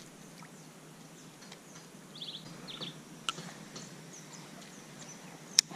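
Birds chirping in short runs of rapid high notes over a faint steady outdoor background, with a few sharp clicks, the loudest one near the end.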